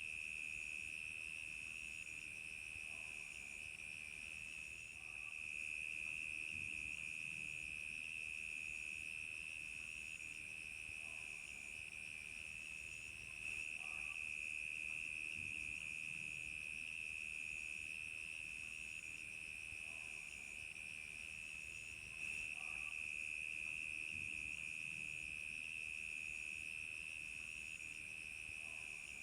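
Crickets chirping in a steady, continuous high trill. A higher, thinner chirp pulses over it about once a second.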